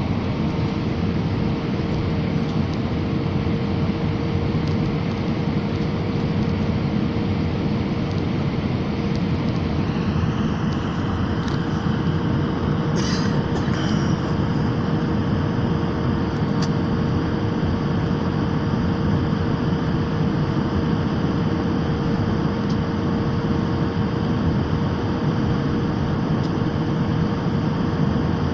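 Steady airliner cabin noise during the descent for landing: engine and airflow rumble with a steady hum running through it. About ten seconds in the higher hiss changes, and a brief clatter comes a few seconds later.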